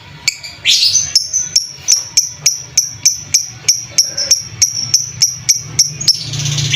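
Lovebird chirping in a fast, even series of sharp high chirps, about three a second, ending in a longer, harsher squawk near the end. It is the excited rapid chirping used as a lure call to rouse other lovebirds.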